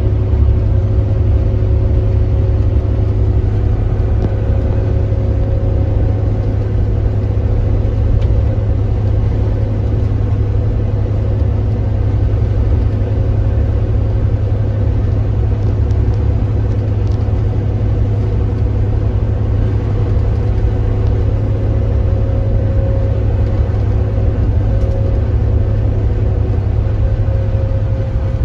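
Kia Granbird Sunshine coach's engine running steadily under way: a constant low drone with two faint steady whining tones above it.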